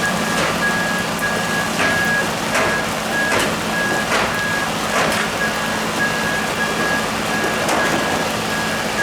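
An electronic alarm beeping over and over at a high pitch, about two beeps a second, over a steady hiss and a low engine hum, with short crackles about once a second.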